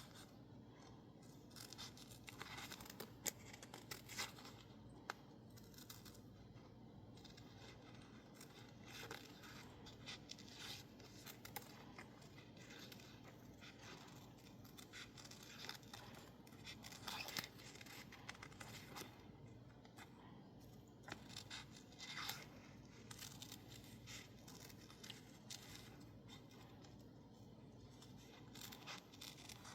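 Scissors snipping through sticker label paper in faint, irregular short cuts, with light paper rustling between them.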